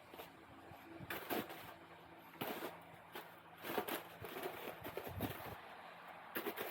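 Snow crunching and scraping in irregular short bursts, a few per second at times, as snow is worked by hand.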